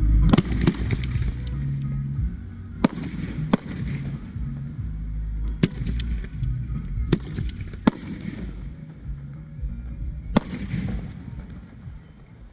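Fireworks going off: a string of sharp bangs, several close together near the start and then single ones every second or two, each trailing off in an echo. Background music plays under the first couple of seconds.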